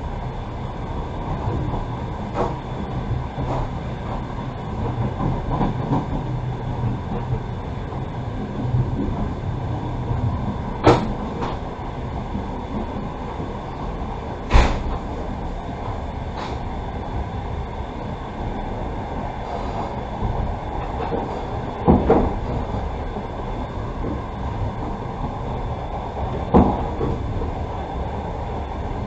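Passenger train running on the rails, heard from inside the carriage: a steady rumble of wheels on track with four sharp, well-spaced knocks.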